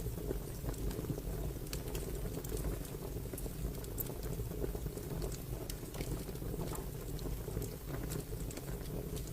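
Fire crackling: a steady low rumble of burning with scattered sharp pops and snaps at irregular intervals.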